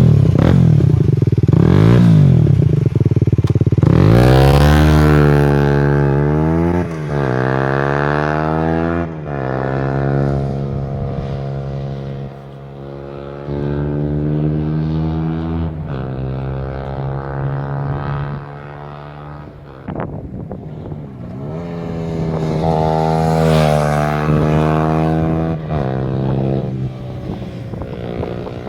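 Aprilia RS4 125's single-cylinder four-stroke engine through a LeoVince aftermarket exhaust, revving up and down. The revs climb sharply about four seconds in, then settle lower, and climb and fall again near the end.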